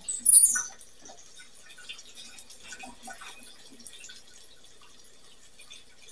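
Steak and an egg sizzling in cast iron frying pans: a faint, steady crackle of small pops. A brief high, falling squeak sounds just after the start.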